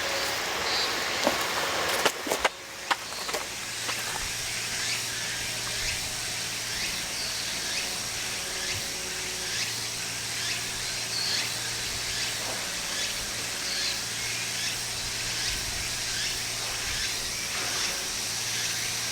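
Outdoor background with faint, repeated high chirps over a steady low hum. A few sharp knocks come two to three seconds in.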